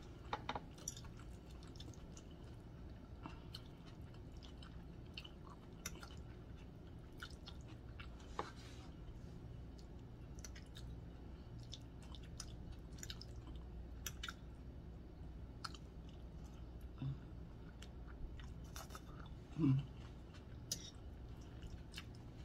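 Faint chewing and wet mouth clicks of someone eating spaghetti in meat sauce, with scattered light clicks of a fork against the plate. A short murmur of the voice comes near the end, over a steady low hum.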